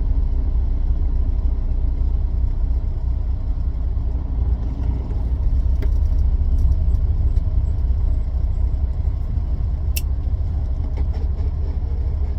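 Semi truck running with a steady low rumble, with one short tick about ten seconds in.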